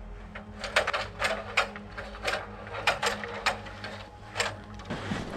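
A series of about ten sharp clicks and knocks at irregular spacing, over a steady low hum that stops near the end.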